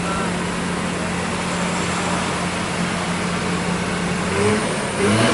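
Truck engine running steadily under load, with a steady hum and road noise, and a brief rise in pitch near the end.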